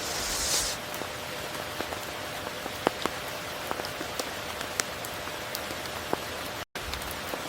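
Steady rain falling, with many individual drops ticking sharply through the hiss and a brief swell of brighter hiss about half a second in. The sound drops out completely for an instant near the end.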